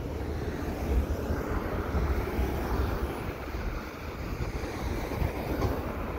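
Freight train of tank cars rolling steadily across a steel railway overpass, a continuous rumble of wheels on rail, with wind buffeting the microphone.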